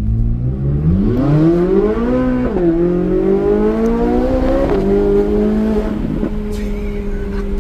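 Corvette C8 Z06's flat-plane-crank V8 under hard acceleration, its pitch climbing steeply through one gear, dropping sharply at an upshift, climbing again and stepping down at a second shift. It then settles into a steady drone.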